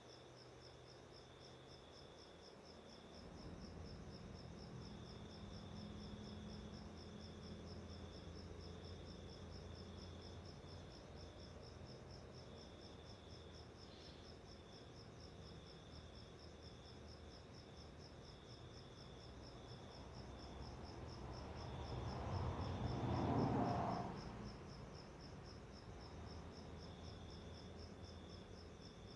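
Insect trilling steadily in a fast, even pulse. Near the end a low rumbling noise builds over a few seconds and then drops away; it is the loudest sound here.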